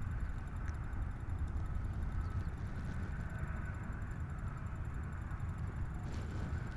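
Steady low background rumble with no gunshot.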